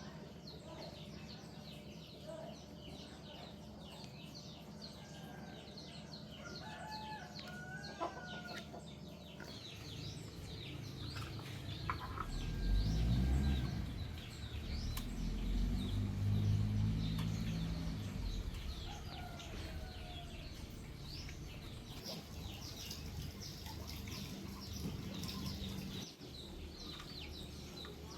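Chickens clucking, with small birds chirping. In the middle a low rumble swells and fades over several seconds, the loudest thing in the stretch.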